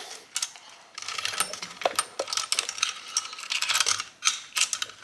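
Chainsaw chain links clinking and rattling in quick irregular clicks as the loose chain is handled and slipped over the clutch drum and onto the bar.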